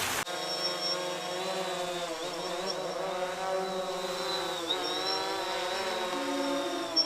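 DJI Phantom 3 quadcopter's propellers spinning up about a quarter second in, then a steady buzzing whine whose pitch wavers up and down as the rotors change speed.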